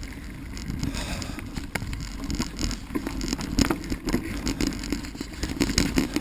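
Bicycle rolling over a rough, rooty dirt trail: steady tyre noise with frequent rattles and knocks from the bike as it goes over bumps.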